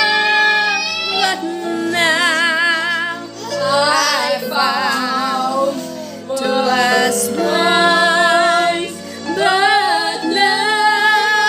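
Music with a female voice singing held phrases with wide vibrato over a steady accompaniment, with short breaths between phrases.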